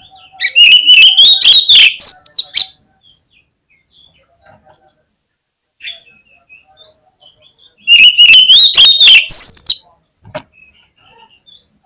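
Oriental magpie-robin (kacer) song, a lure recording: two loud, near-identical phrases of rising whistles laced with rapid harsh notes, about seven seconds apart, with faint chirping between them. A single sharp click comes near the end.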